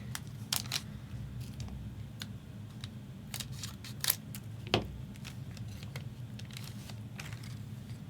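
A trading-card pack being torn open and its wrapper crinkled: a string of short rips and crackles, over a low steady room hum.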